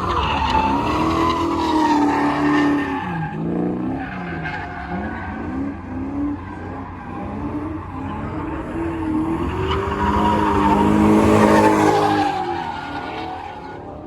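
Drift car performing: the engine revs up and down repeatedly while the tyres squeal and skid through the slides, loudest about ten to twelve seconds in.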